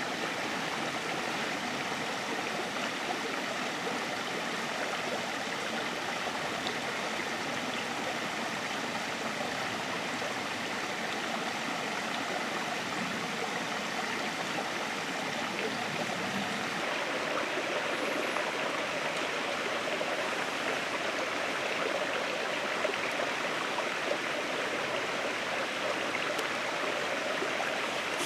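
Steady rain falling, an even hiss that runs on without a break.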